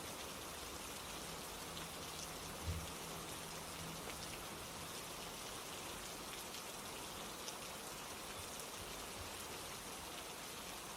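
Steady rain falling, with scattered ticks of drops. A single low thump comes about a quarter of the way in, over a faint low hum that lasts a few seconds.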